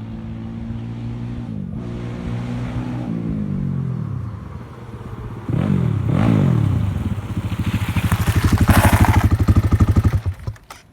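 XZ 250 motorcycle engine with an Akrapovic exhaust running hard: its pitch drops twice early on, it revs up and back down twice about halfway through, then it is loudest with a rapid pulsing beat before cutting off abruptly near the end.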